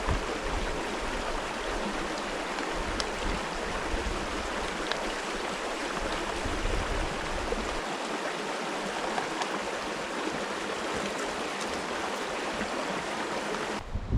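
River water flowing in a steady rush, with a few faint ticks.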